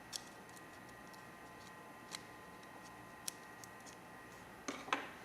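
A few small, sharp clicks of metal lighter parts and tools being handled while a vintage gas lighter is taken apart, with a louder cluster of clicks near the end.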